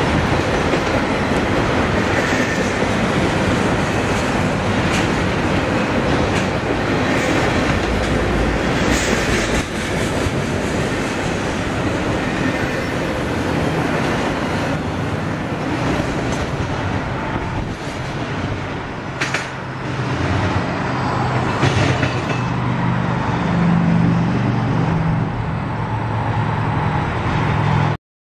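Intermodal freight train cars rolling past on the rails, a steady rumble with wheel clatter and a few sharp clicks. The sound cuts off abruptly near the end.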